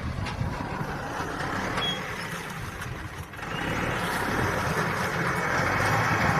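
Big tractor's engine running steadily under load while plowing, with a noisy mechanical rumble that grows louder about halfway through.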